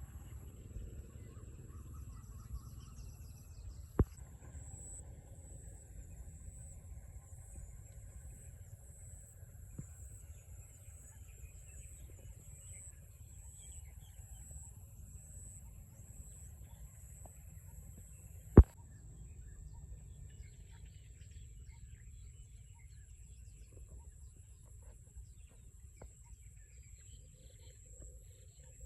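Rice-field ambience after rain: faint bird chirps over a steady high-pitched whine and a low rumble. A sharp knock comes about four seconds in, and a louder one just past the middle.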